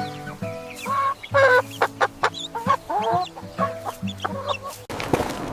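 Chicken clucking, a run of short calls over background music with steady held notes. About five seconds in it cuts off abruptly and a rustling crackle takes over.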